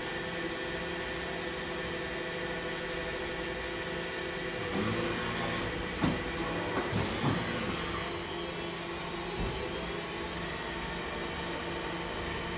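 CNC machine tool running with a steady mechanical hum, broken by a stretch of louder mechanical noise and several sharp clicks about five to eight seconds in.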